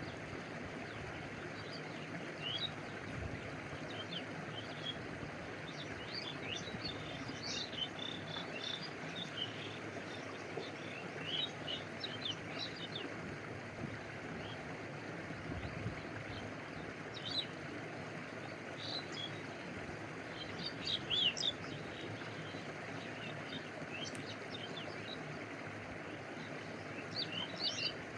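Stream water flowing with a steady, even rush. Scattered bursts of short high chirps come over it every few seconds.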